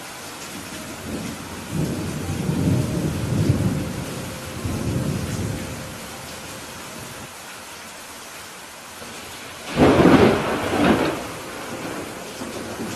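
Steady rain during a thunderstorm. A low rumble of thunder rolls for a few seconds early on, then a louder, sharper thunderclap comes about ten seconds in, with a second crack a second later.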